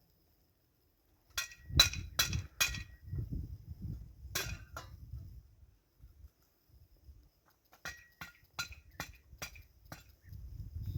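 Kitchenware clinking: four quick sharp clinks, a single one, then a run of about seven more, each with a brief ring.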